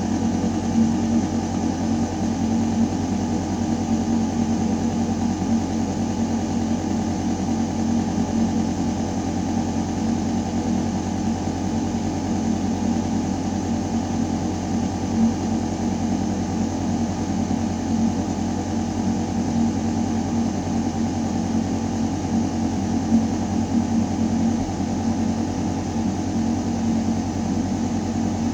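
Building ventilation system running: a steady mechanical hum with a deep drone and a clear mid-low tone, over the even rush of air moving through metal ducting.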